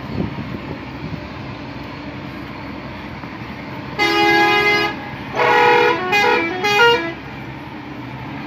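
Truck horns sounding over a running engine: one steady blast about four seconds in, then a multi-note musical horn stepping through several pitches.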